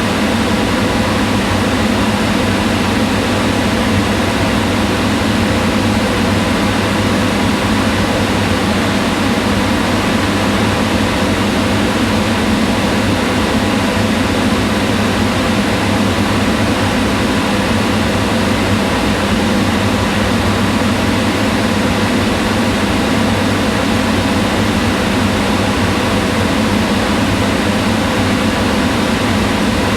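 Kitchen range hood fan running steadily: an even whir of rushing air over a low hum, unchanging throughout.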